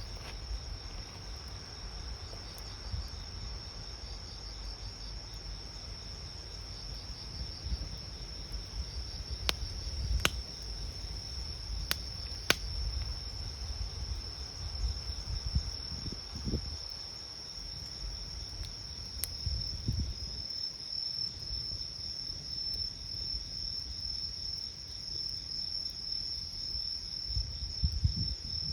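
Crickets trilling steadily in a continuous high-pitched chorus, with a handful of sharp pops from a wood campfire, several clustered between about ten and thirteen seconds in. A low rumble runs underneath.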